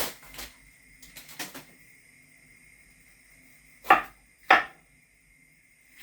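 Kitchen knife chopping on a cutting board: two sharp, loud chops about half a second apart, after a few lighter taps.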